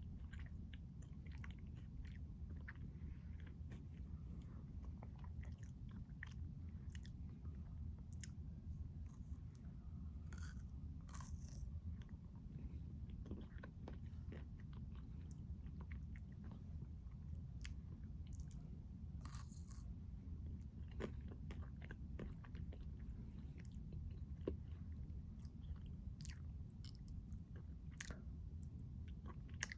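Close-miked chewing and biting of a Keto Pint Triple Chocolate Crunch Bar, with scattered crisp crunches throughout over a steady low hum.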